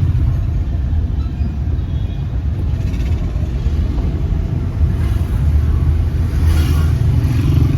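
Steady low rumble of street traffic and engines, with faint voices briefly about six and a half seconds in.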